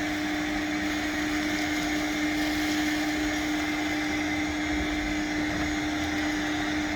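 Shop vac running steadily, its motor giving one even hum with a fainter high whine above it.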